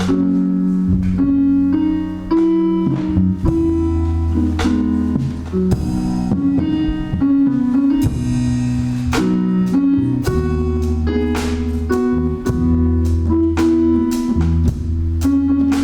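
Live gospel band playing: steady bass notes and keyboard chords with regular drum and cymbal hits.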